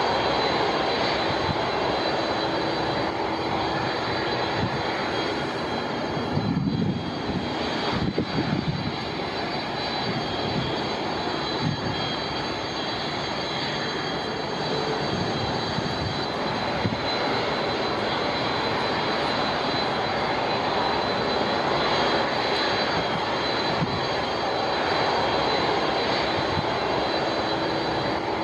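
Jet airliner engines running steadily, a dense noise with a high, even whine. A couple of low buffeting gusts come about seven seconds in, from wind on the microphone.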